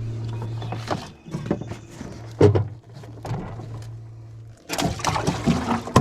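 A small motor hums steadily, with scattered clicks and a knock about halfway, then cuts off about four and a half seconds in. A burst of rough, rustling noise follows to the end.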